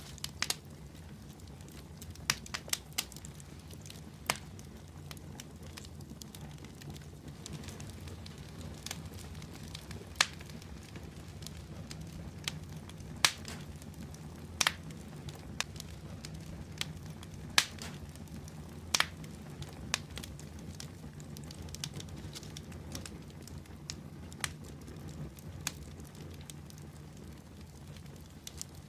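Wood fire burning in a fireplace: a steady low rumble of the flames with irregular sharp crackles and pops, the loudest a handful of pops in the middle of the stretch.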